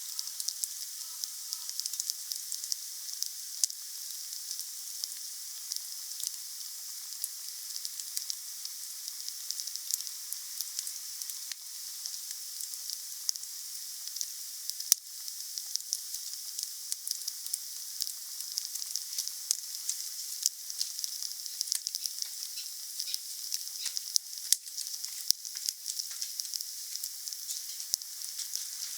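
Wood fire burning with a steady hiss and a dense, irregular crackle of small pops. A sharper pop comes about halfway through, and a few more come near the end.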